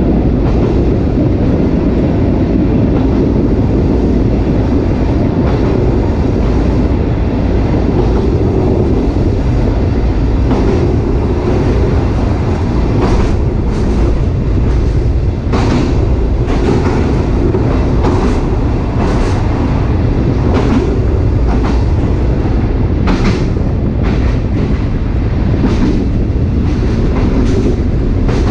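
Sightseeing train's SK200 passenger car running along the track: a steady, loud low rumble of steel wheels on rail, with irregular clacks over the rail joints from about a third of the way in.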